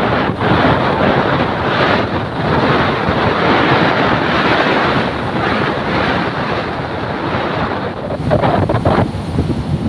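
Strong wind buffeting the microphone: a loud, continuous rushing noise that swells and eases a little.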